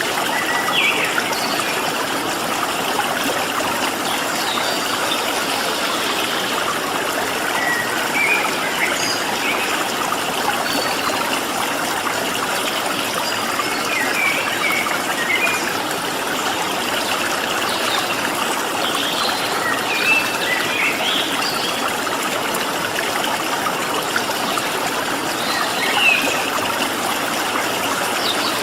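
Stream of flowing water running steadily, with short, high bird chirps dotted over it now and then.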